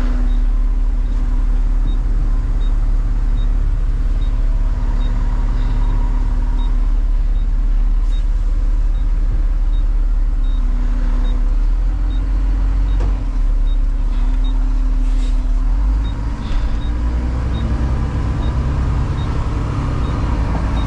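Diesel truck engine running steadily under way, a strong low drone, with a faint tick repeating about twice a second. The engine note shifts lower and rougher about three-quarters of the way through.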